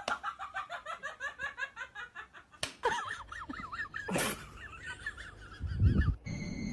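A person laughing: a quick run of high giggles through the first couple of seconds, then more laughter in wavering bursts.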